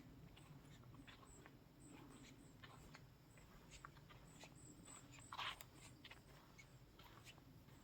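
Faint outdoor ambience: a low wind rumble with scattered light ticks and short high chirps, and one slightly louder brief rustle about five and a half seconds in.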